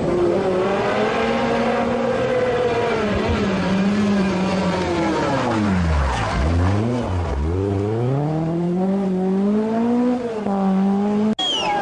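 Group B rally car engine: its revs fall away sharply about halfway through, dip twice, then climb steadily as the car accelerates again. Just before the end the sound cuts abruptly to another shot.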